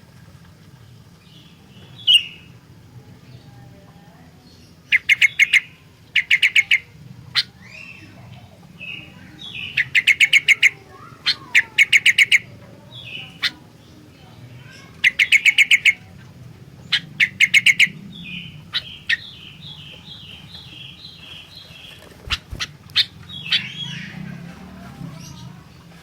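Sooty-headed bulbul (kutilang) singing: repeated bursts of quick, sharp notes in clusters of five or six, between single chirps, with a run of about ten evenly spaced notes a little past the middle.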